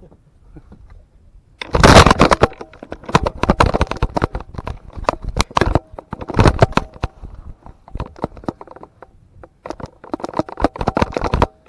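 Handling noise on the microphone: loud crackling and scraping in bursts, starting about a second and a half in and running in clusters until just before the end.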